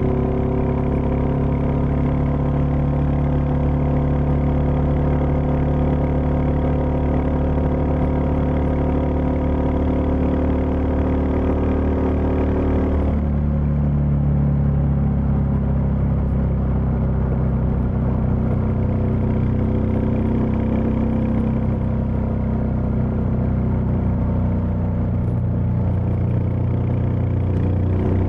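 Royal Enfield Meteor 350's single-cylinder engine running at a steady pitch. About halfway through, its note changes abruptly: the higher tones drop away and it runs lower and rougher.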